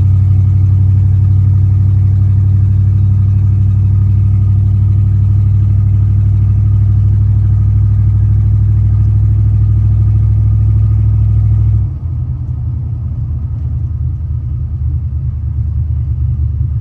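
Chevy 350 V8 in a 1935 Ford street rod idling steadily with an even, low rumble. About twelve seconds in, the sound drops abruptly and turns quieter and duller while the engine keeps running.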